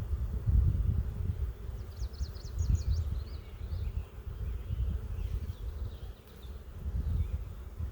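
Honey bees buzzing around an open hive during a frame inspection, the buzz swelling and fading as they fly past. A short run of high chirps comes about two seconds in.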